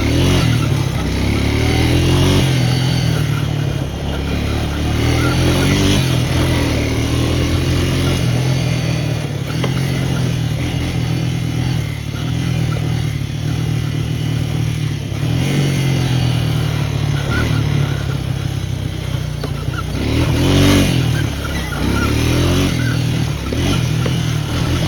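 Small off-road vehicle engine running under throttle, its pitch rising and falling several times as the rider accelerates and eases off.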